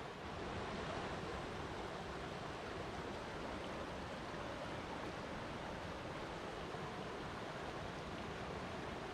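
Flowing water making a steady, unbroken rush.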